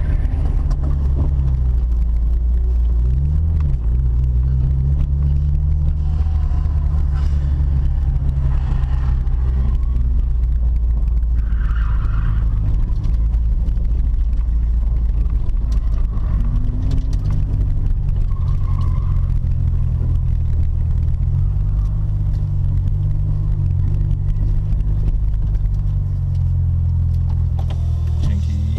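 Mitsubishi Lancer Evolution V's turbocharged four-cylinder engine running at low, fairly steady revs, heard from inside the cabin, with a few small shifts in pitch.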